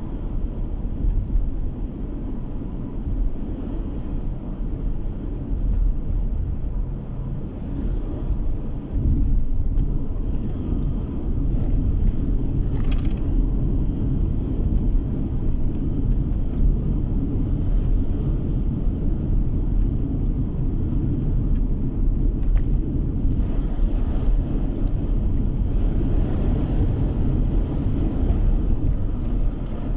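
Steady road and engine noise of a car driving, heard from inside the cabin, a low rumble with no pitch changes. A brief sharp click sounds about halfway through.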